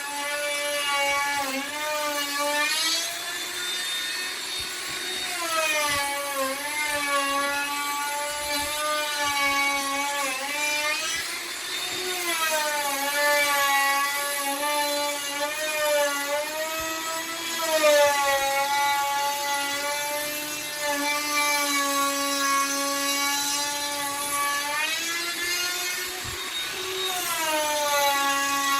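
Hand-held electric router carving wood, its motor running with a high whine that sags in pitch and recovers every few seconds as the bit takes load in the cut.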